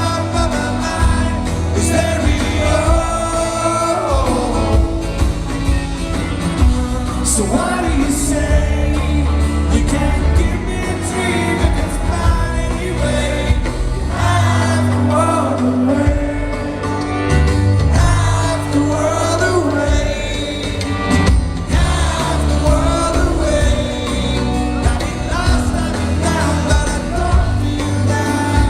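Live band performing a song: a male lead vocal sings over guitar and bass.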